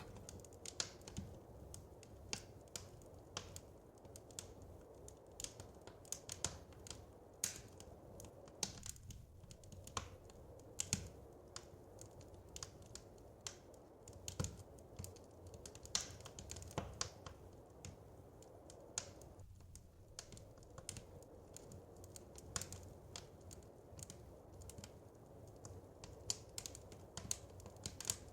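Wood fire crackling in a fireplace: irregular sharp snaps and pops, a few louder than the rest, over a low, steady background hiss.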